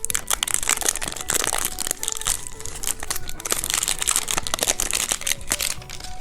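Candy wrapper crinkling as it is handled and opened: a dense run of crackles that dies away near the end.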